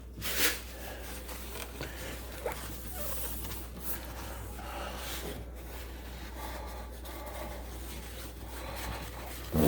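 Acetone-dampened rag wiping the glass of an aquarium to clear silicone residue: a steady, soft rubbing noise with small irregular strokes.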